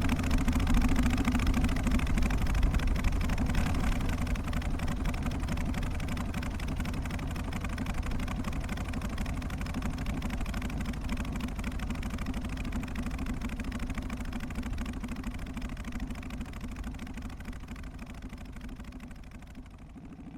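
Harley-Davidson Twin Cam 88 Softail's air-cooled V-twin idling in its lopey three-beat rhythm. The sound fades steadily quieter throughout.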